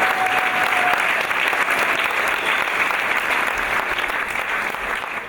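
Audience applauding steadily after a dance performance, with a short held cry over it just at the start, the clapping fading off near the end.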